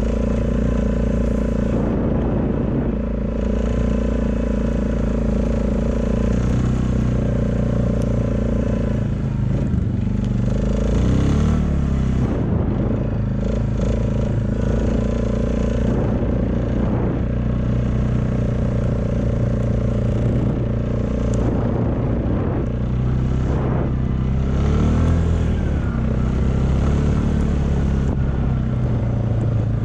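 A motor vehicle's engine running steadily with a low rumble, its pitch shifting up and down a couple of times, along with some rattling.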